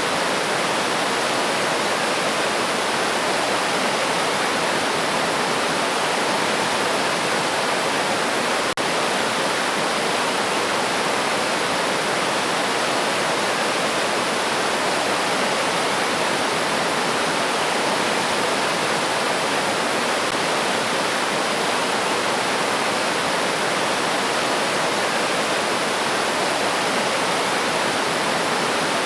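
Steady rushing of a river stream, an even, unbroken water noise with no change in flow.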